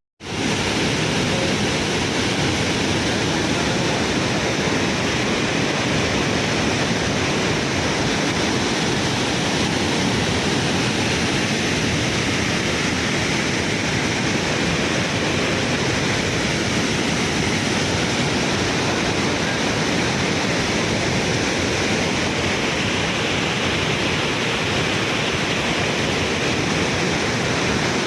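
Water rushing steadily through a reservoir dam's outlet, a loud, even, unbroken rush of falling water.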